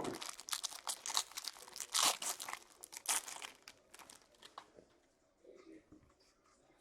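Plastic wrapping crinkling and tearing as a box of hockey cards is unwrapped and opened, in a rapid run of sharp crackles that dies down about four and a half seconds in.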